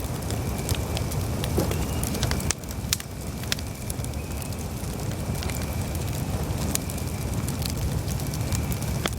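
Campfire burning: a steady low rumble with scattered sharp crackles and pops of burning wood.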